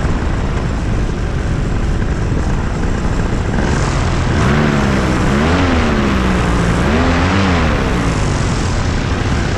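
Light aircraft's engine and propeller running with heavy wind noise, loud and steady, with a wavering tone that rises and falls in the middle.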